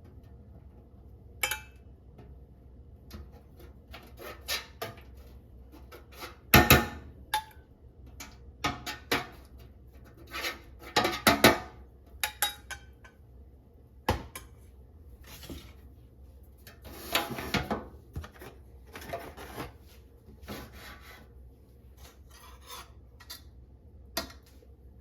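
Kitchen work sounds: irregular scraping and rubbing with clinks and knocks of utensils against dishes, the loudest knocks about six and eleven seconds in, and a longer scrape around seventeen seconds.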